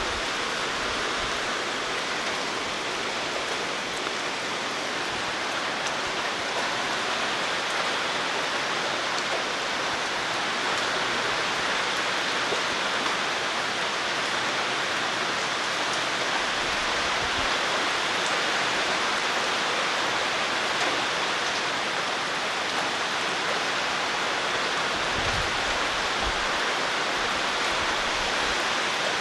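Heavy typhoon rain pouring steadily with strong wind, a dense unbroken hiss; the wind is a roaring 'gōō'. A few low thumps come near the end.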